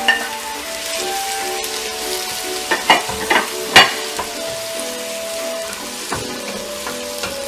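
Chopped tomatoes and onions sizzling in hot oil in a pot while being stirred with a wooden spatula, with a couple of sharp knocks of the spatula against the pot about three and four seconds in.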